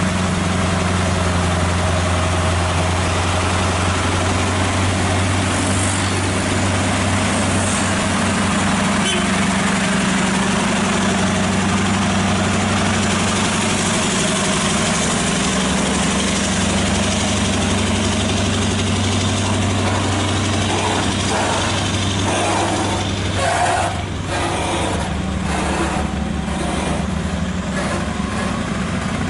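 Truck diesel engine idling steadily, with a run of knocks and clatter over the last few seconds.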